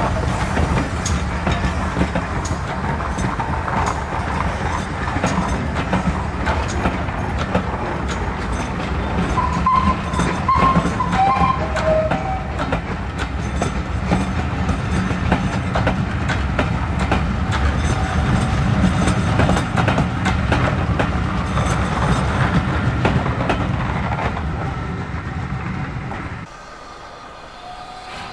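Railway passenger coaches of a steam-hauled train rolling past close by: a steady rumble with rapid clicking of the wheels over the rail joints, and a brief wheel squeal about ten seconds in. The sound drops away abruptly near the end.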